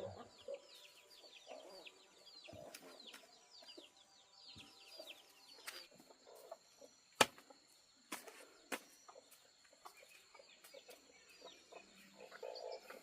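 Chickens clucking, with rapid high peeping chirps through the first half, then a few sharp knocks.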